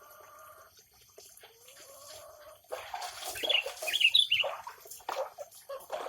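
Birds calling: a faint drawn-out call at first, then from about three seconds in a louder burst of rapid high chirps mixed with harsher calls.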